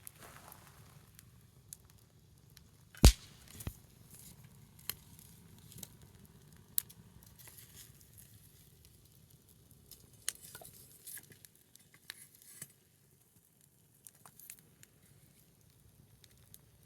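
Small wood fire burning low, with sparse crackles and pops and one sharp crack about three seconds in.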